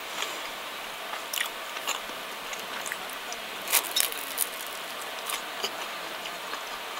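A person biting into and chewing a slice of toasted pizza toast topped with fried chicken. Short crunches of toasted bread come scattered through, the loudest a little under four seconds in.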